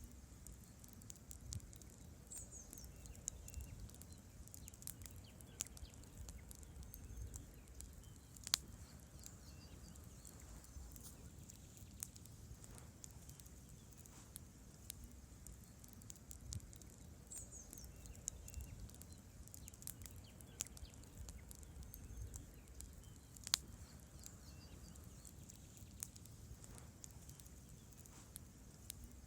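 A wood campfire burning: logs crackling with many scattered small snaps over a low flame rumble, and two louder pops, one about a third of the way in and one near the end. A faint high chirp comes twice.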